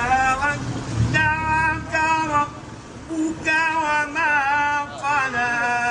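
A single high voice chanting unaccompanied in a melismatic style, with short phrases of held, wavering notes separated by brief pauses.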